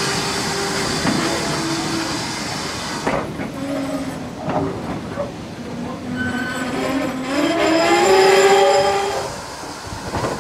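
GWR passenger coaches rolling slowly past a station platform, with steady rolling noise and a hiss in the first few seconds. A wavering squeal from the coaches' running gear rises in pitch and grows louder about eight seconds in, then drops away.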